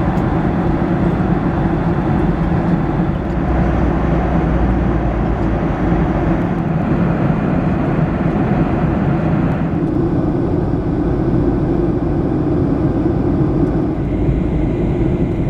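Steady cabin noise of a Boeing 737-700 in flight: engine and airflow noise with a constant low hum. About ten seconds in, the higher hiss drops away abruptly.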